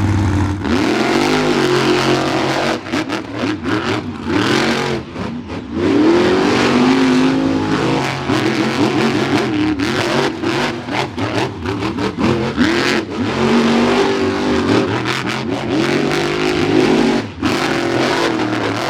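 Monster truck engines revving hard and dropping back again and again as the trucks race, with many short, sharp cracks throughout.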